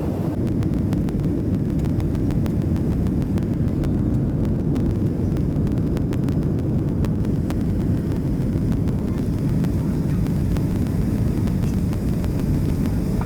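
Steady low rumble inside the cabin of a Boeing 737-700 on the ground after landing: engine and airframe noise, with faint scattered rattling clicks.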